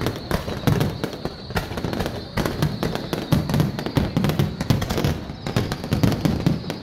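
Fireworks display: a dense, continuous run of bangs and crackles, many overlapping reports every second with deep thuds among them.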